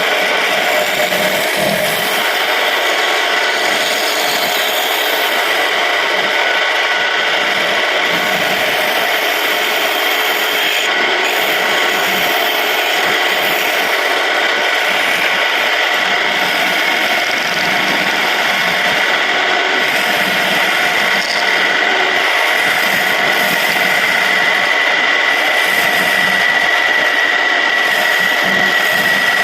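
Homemade wood lathe running steadily with a constant whine, while a tool rubs and scrapes against the spinning surian-wood blank.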